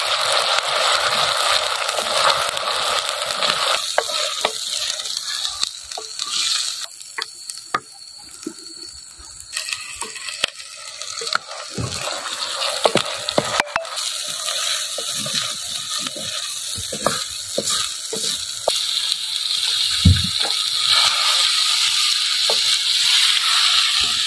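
Chopped onions and potato pieces frying in hot oil in a clay pot, sizzling steadily while a wooden spatula stirs, scraping and knocking against the pot. The sizzle dies down for a few seconds near the middle, then comes back loud, with one dull thump about three quarters of the way through.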